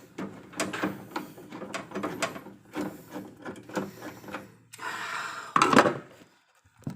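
Handling noise: a run of knocks and scrapes, with a louder scraping burst about five and a half seconds in, then quiet apart from one last knock.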